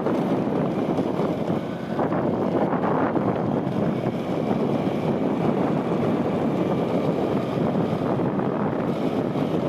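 Steady rush of wind buffeting the microphone, with the road noise of a vehicle travelling along a highway.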